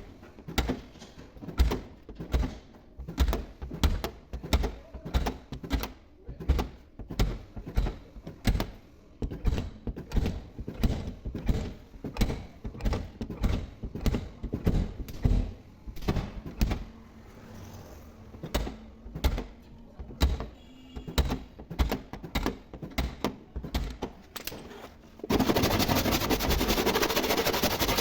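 Repeated knocks on car body sheet metal, about one to two a second, from body repair work on a dent. About three seconds before the end, a loud, steady rushing noise starts and drowns them out.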